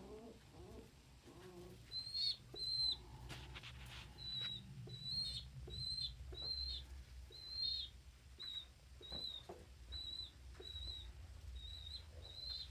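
A young pigeon (squeaker) peeping: a run of short, high peeps at about one and a half a second, starting about two seconds in.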